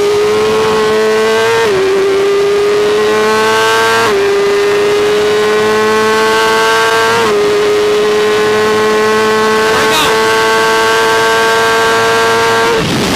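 BMW S1000RR superbike's inline-four engine at full throttle and high revs, the pitch climbing through the gears with three quick upshifts. The throttle closes shortly before the end. Wind rush sits under the engine note.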